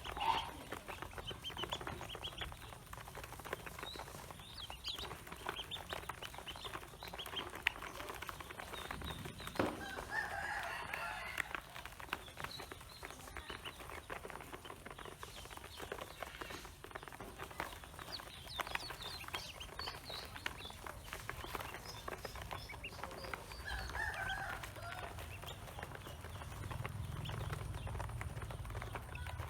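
Pekin ducklings calling a few times over a steady run of small clicks and taps, with a low rumble near the end.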